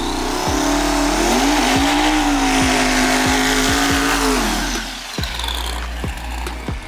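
Drag car engine at full throttle during a run: the pitch climbs, holds steady for a few seconds, then falls away about four and a half seconds in, with a loud rushing hiss over it. Background music with a steady beat runs underneath.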